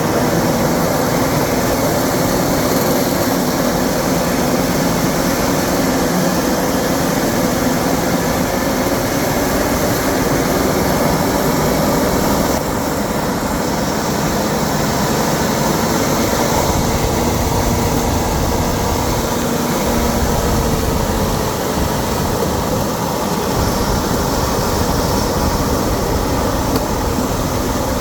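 Steady rumble and hiss of a moving vehicle, heard from on board, easing slightly a little before halfway.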